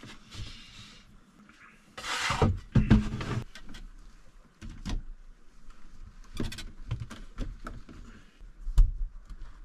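Handling noises in a small room: a loud scraping rush about two seconds in, then scattered knocks and clicks, the sharpest near the end.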